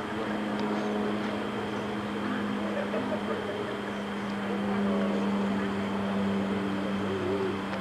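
Steady low mechanical hum of an idling car engine, a little louder about five seconds in, with faint voices in the background.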